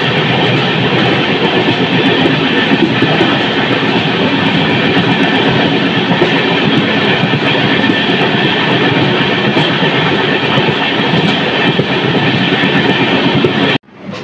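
Express passenger train running at speed, heard from aboard a moving coach: a loud, steady rush and rumble of wheels on the track. It cuts off abruptly near the end, giving way to a much quieter scene.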